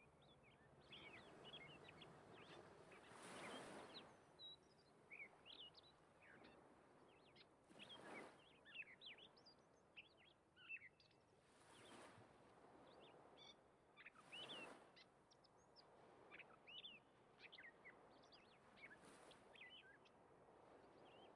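Faint birds chirping and twittering in many short, quick calls, over a low background with several soft whooshing swells that rise and fade.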